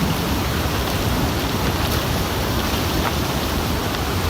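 Steady rushing of a river in flood surge from an ice dam break, with scattered faint clicks.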